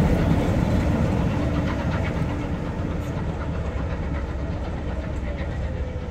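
Coaches of a passing train rolling away along the track, with the diesel locomotive coupled at the tail passing by; the low rumble fades steadily as the train recedes.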